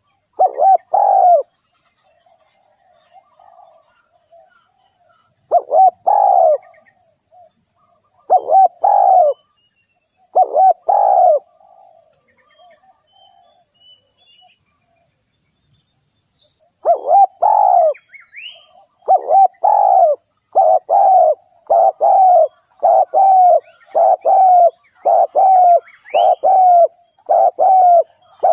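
Spotted dove cooing, the call of a decoy bird used to lure wild spotted doves. There are short groups of two or three coos in the first half, then a pause, then a steady run of coos about one a second. Faint small-bird chirps sound in the background.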